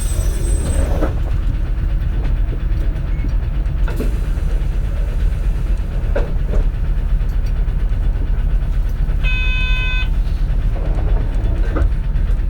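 Cabin running noise of a 2004 CNG (compressed natural gas) city bus: a steady low engine and road rumble with a few short knocks and rattles. A short electronic chime sounds a little over nine seconds in.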